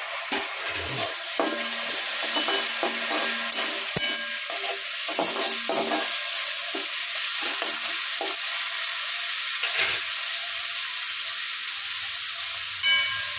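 Sliced onions, green chillies and freshly added chopped tomatoes sizzling in oil in a nonstick pan, stirred with a metal spatula that scrapes the pan in irregular strokes.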